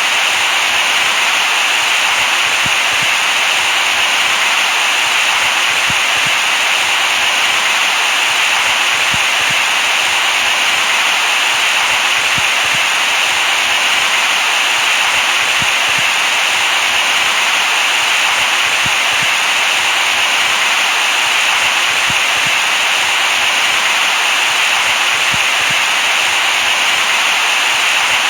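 Steady electronic white noise for soothing a baby to sleep: an even, unchanging hiss, strongest in the upper middle of the range.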